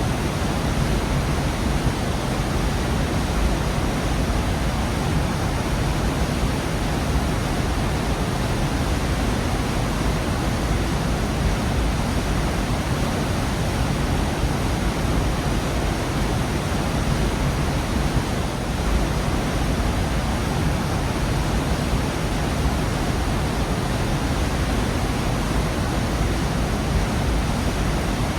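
Waterfall in a rocky gorge, a steady, unbroken rush of falling water, heaviest in the low end.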